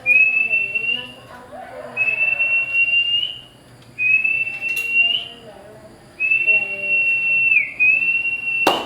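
Young Oriental magpie-robin giving a series of five long, pure whistled notes at the same high pitch, each held about a second or more and rising slightly, repeated about every two seconds. Fainter lower warbling in the first two seconds and a sharp click near the end.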